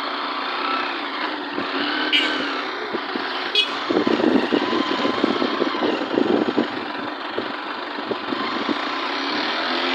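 A vehicle engine running steadily on the move, with a stretch of heavier rumbling noise from about four to seven seconds in.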